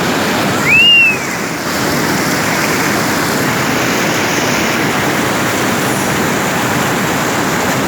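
Waterfall on the Pandeiro river: a loud, steady rush of falling water. About a second in, a short whistle rises and falls in pitch over it.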